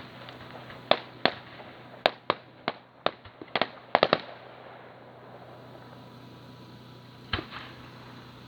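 Firework shells bursting in a quick irregular series of sharp bangs for about four seconds, then a pause and two more bangs near the end.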